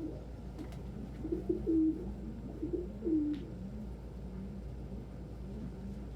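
Domestic pigeons cooing: two louder, deeper coos in the first half over softer repeated cooing that carries on throughout.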